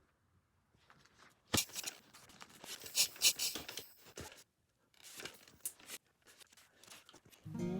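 Irregular tearing and crinkling rustles, like plastic or paper being torn and handled, in short bursts. Acoustic guitar music starts near the end.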